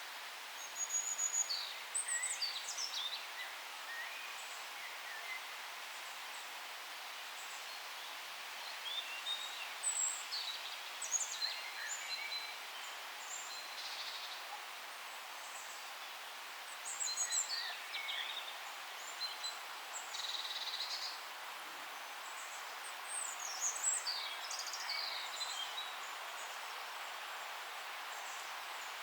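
Several songbirds singing in a forest, in short chirps and trills that come in bursts every several seconds over a steady soft hiss of background noise.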